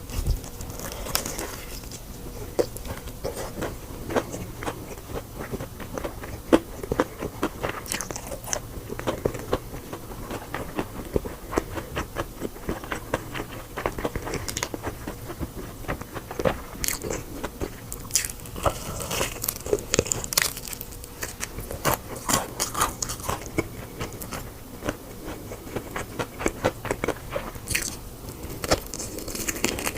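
Close-miked eating: crisp bites and crunchy chewing of crispy food, coming in irregular crackly bursts.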